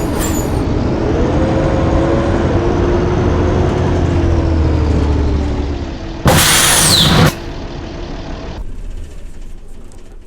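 Blue Bird school bus engine running with its pitch slowly shifting. A little past the middle comes a loud, sharp hiss of air from the air brakes lasting about a second, and after that the engine sound drops away.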